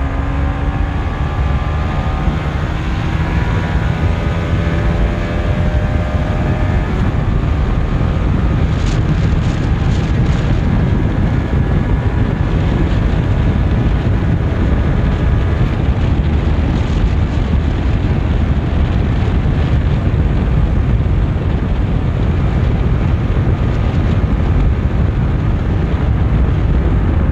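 Honda CBR150R's single-cylinder engine accelerating hard, its pitch climbing through several gears in the first few seconds. It is then buried under heavy wind rush on the microphone at high speed.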